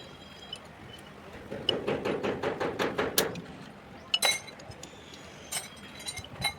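Metal tools and engine parts clinking during the strip-down of an engine: a quick run of taps, then one sharp ringing metallic clink, and a few lighter clicks near the end.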